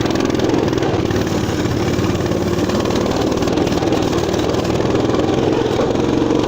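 Motoland RT200 all-terrain motorcycle engine running steadily under throttle, setting off up a hill.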